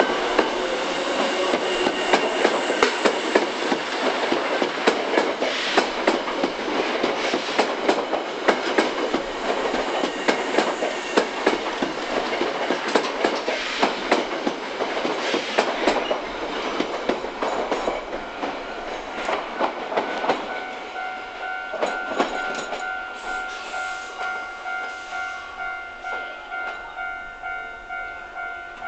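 Hankyu 3000 series electric train running past close by, its wheels clattering rapidly over the rail joints, with a pitch rising at the start as it gathers speed. In the last third the clatter thins to a regular beat about one and a half times a second over steady ringing tones, fading.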